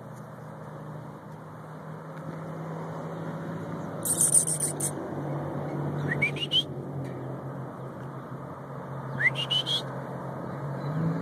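Bird calls over a steady low hum: a short, high, buzzy call about four seconds in, then two brief rising whistled trills.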